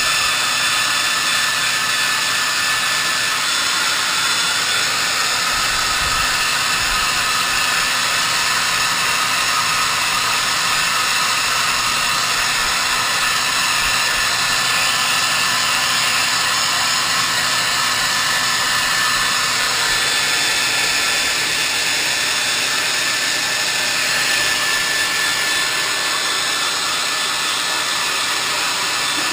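Hair dryer blowing steadily, a continuous rushing noise with a faint motor hum, most likely drying a freshly bathed bird.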